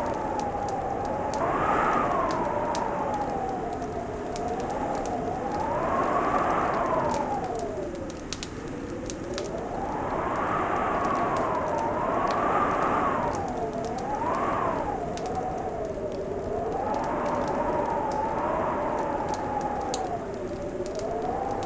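Wind whistling in a steady blow, its pitch wavering slowly up and down every few seconds, over the fine, scattered crackle of a wood fire in a fireplace.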